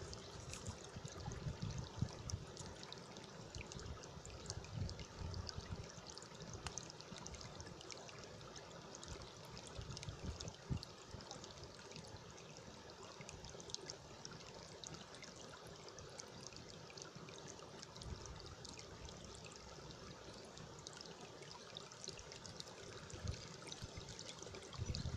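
A small stream trickling and splashing over its bed, faint and steady. Wind buffets the microphone in low gusts during the first few seconds and again near the end.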